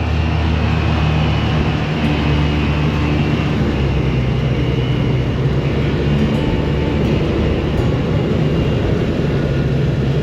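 Polaris Ranger side-by-side UTV running steadily under way, its engine drone low and constant beneath the noise of the moving vehicle.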